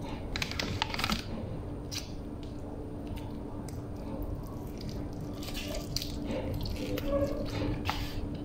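A person biting into and chewing a filled Arabic khubz flatbread wrap close to the microphone, with wet, clicky mouth sounds that come in short clusters. A steady low hum runs underneath.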